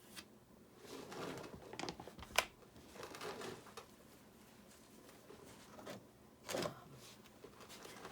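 River rocks being handled and laid by hand for a fireplace hearth: scattered scrapes and knocks, with one sharp clack about two and a half seconds in.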